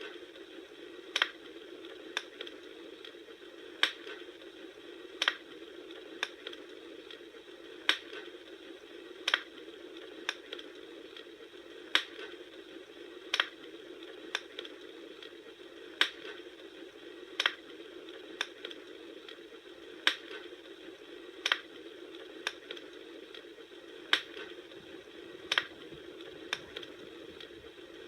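Bonfire crackling: a sharp pop about every second and a third, at strikingly even spacing, over a steady hiss.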